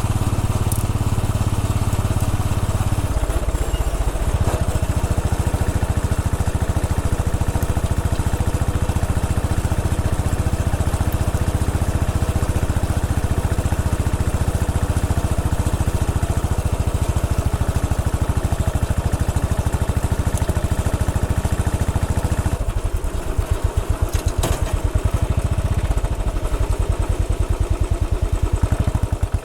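Royal Enfield Bullet 500 EFI's single-cylinder engine running while riding. For the last several seconds the exhaust beat slows into distinct, evenly spaced thumps.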